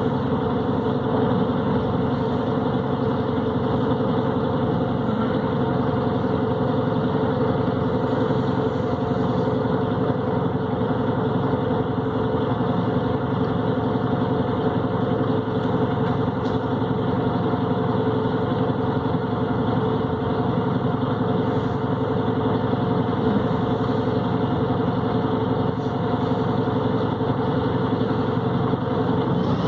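Volvo B7RLE city bus's six-cylinder diesel engine running at a steady speed, a constant hum that neither rises nor falls.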